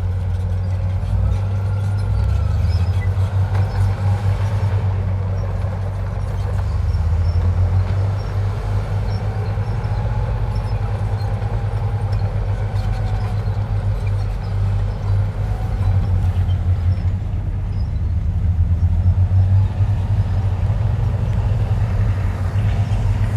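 Diesel engine of heavy earthmoving machinery running with a deep, steady rumble that swells and eases, with faint whines rising and falling over it.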